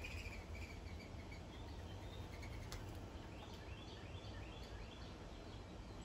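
Faint short bird chirps, several in quick succession and more frequent in the second half, over a low steady outdoor rumble.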